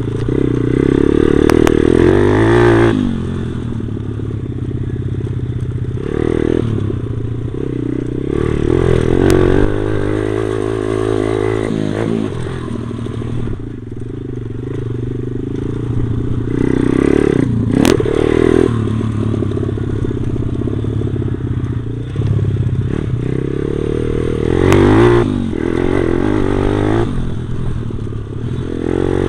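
Stomp pit bike's single-cylinder four-stroke engine being ridden, revving up and easing off again and again, with the bike clattering over the ground. Heard from a camera worn on the rider's body armour.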